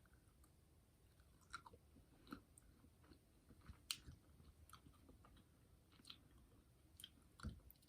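Faint chewing of a jelly bean candy (a Brach's jelly bird egg): scattered soft, sticky mouth clicks and smacks.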